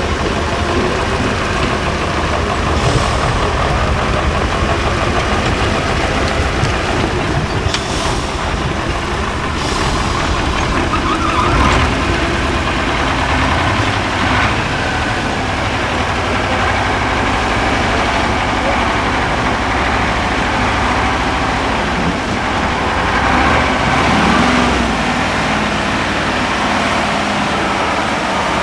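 Engine of a 6x6 Ural prototype trial truck running steadily, swelling briefly a little before halfway and again past three-quarters through.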